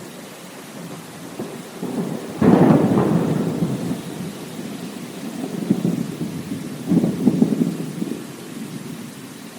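Thunder rumbling over steady rain: a sharp clap about two and a half seconds in that rolls away, then a second rumble a few seconds later.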